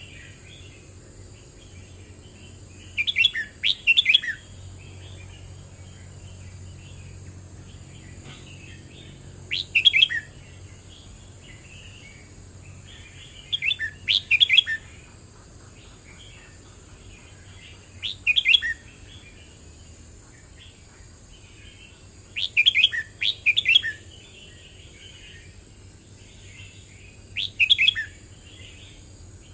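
Red-whiskered bulbul singing: six short, bright phrases of quick warbling notes, one every four to five seconds, with softer chattering calls in between.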